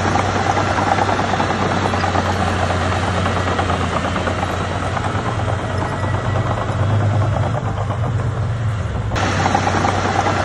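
Bulldozer diesel engine running steadily with a low drone and a dense rattle over it. The sound changes abruptly about nine seconds in.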